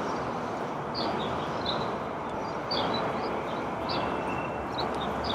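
A steady low background rumble, with short bird chirps and calls every second or so.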